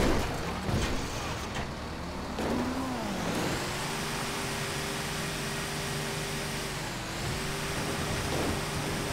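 Motor vehicle engine running: its pitch dips and rises about three seconds in, then holds at a steady hum.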